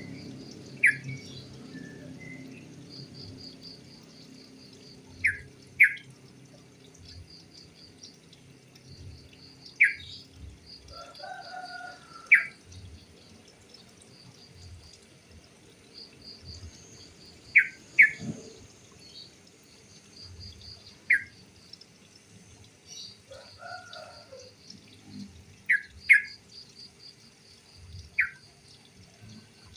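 Yellow-vented bulbuls calling: short, sharp calls every few seconds, with two brief lower warbling phrases, over a faint, fast series of high chirps.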